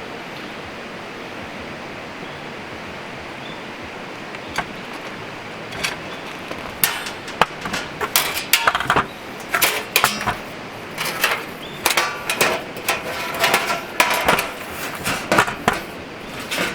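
Metal parts clanking and clinking in quick, irregular knocks, some with a short ring, as a steel fire pit is handled and set up. A steady hiss comes first, and the clanks begin about four seconds in.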